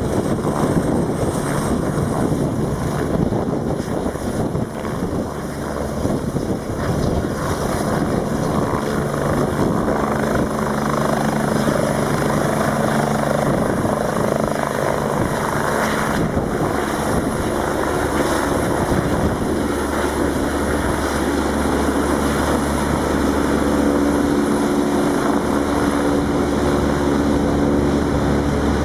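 Air-rescue helicopter taking off: loud, steady turbine and rotor noise, with a deeper steady hum coming in about twenty seconds in.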